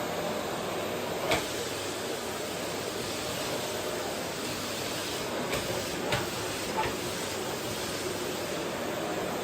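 Vacuum cleaner running steadily, a constant whine over a broad hiss, with a few sharp clicks about a second in and again around five to seven seconds in as it works over a wooden floor.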